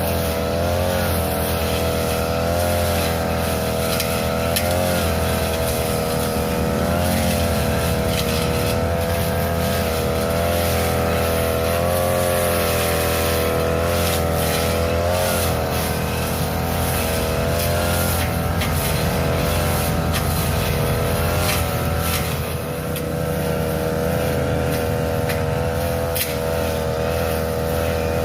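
Small engine of a grass-cutting machine running at high speed while cutting overgrown grass, its pitch dipping briefly now and then under the load.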